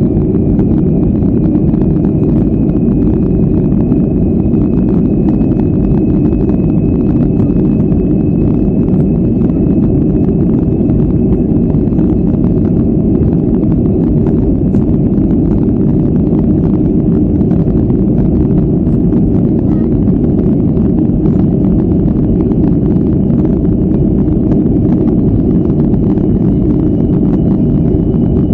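Boeing 737-400's CFM56-3 jet engines running at high thrust during take-off: a steady loud rush with a faint high whine that edges up in pitch near the end.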